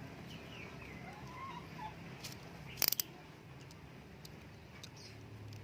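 Faint bird chirps and chickens in the background, broken by a few sharp clicks two to three seconds in, the loudest a quick double click.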